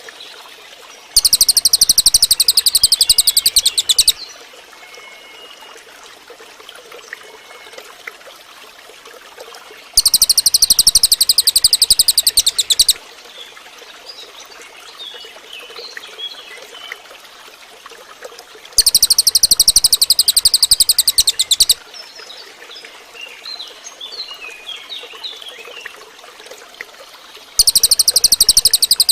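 Cililin bird singing a loud, high, very rapid trill about three seconds long, repeated about every nine seconds: three times, with a fourth starting near the end. Faint softer chirps and a steady hiss fill the gaps.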